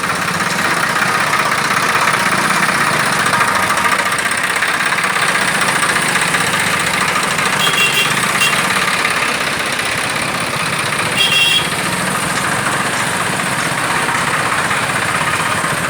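Highway traffic in a jam: vehicle engines idling and running in a steady mass of road noise. Two short high-pitched tones come about eight seconds in and again about three seconds later.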